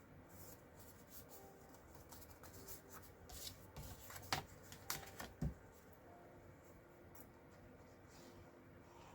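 Cardstock pieces being handled and pressed down on a craft table: soft paper rustling, with a handful of sharp taps and clicks about halfway through.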